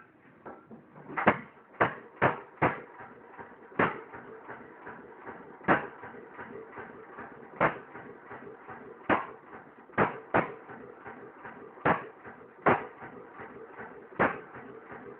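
3 hp Massey Harris Type 2 hit-and-miss stationary engine running, firing with a sharp bang every second or two at uneven intervals, sometimes twice close together, and coasting between firings as its governor skips strokes.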